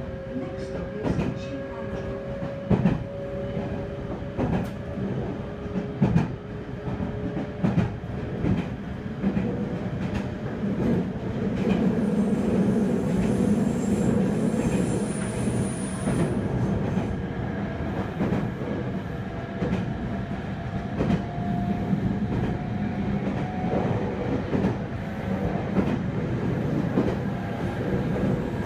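Interior running sound of a Meitetsu 3100 series electric train: a steady rumble of wheels on rail, with repeated clicks of the wheels over rail joints. A thin motor whine sounds above it, sinking slightly near the start and climbing slowly in pitch over the second half.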